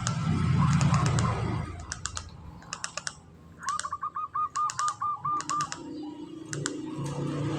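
Zebra dove (perkutut) calling: a quick run of about nine short, evenly spaced cooing notes in the middle, with small clusters of sharp clicks scattered before and after.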